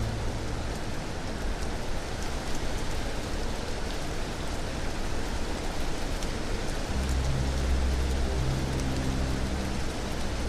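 Steady rain falling, an even hiss with faint scattered drop ticks. About seven seconds in, a low sustained music drone comes in underneath.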